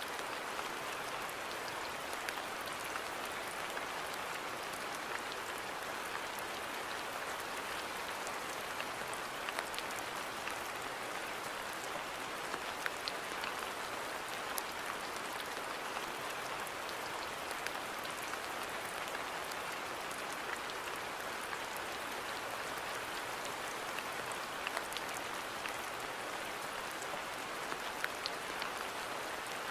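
Steady rain falling on a garden, an even hiss with scattered individual drops ticking on surfaces.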